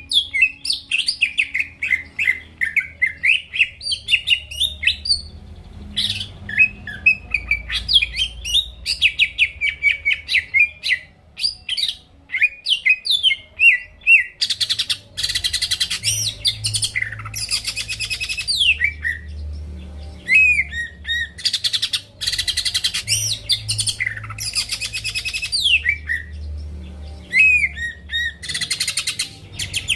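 Greater green leafbird (cucak ijo) singing a continuous, varied song of chirps, rapid trills and downward-sweeping whistles, over a faint low hum.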